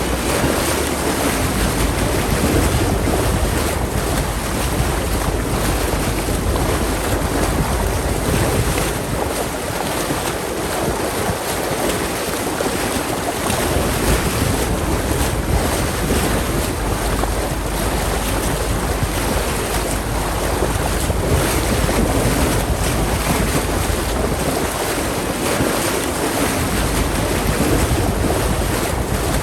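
Wind buffeting the microphone and water rushing past a sailboat's hull while under way: a steady, loud rush with a heavy low rumble throughout.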